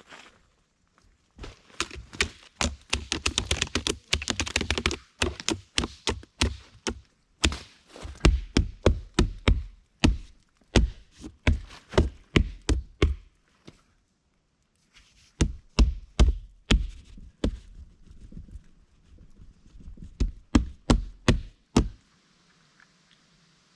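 A rapid series of knocks and thuds, about three a second at times, in several bursts broken by short pauses.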